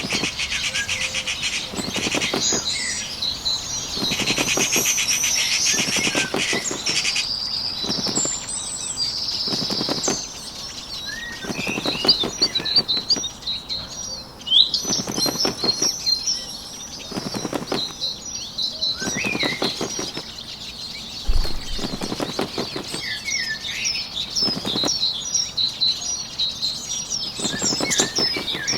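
Bird wings flapping in short repeated flutters about every two seconds, over a continuous background of small songbirds chirping and twittering.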